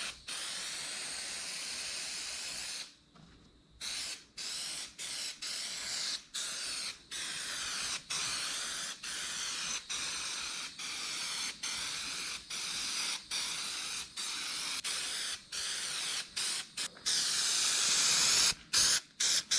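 Aerosol can of spray adhesive hissing: one spray of nearly three seconds, then repeated short bursts about once a second, as a second coat of glue is laid on a car headliner.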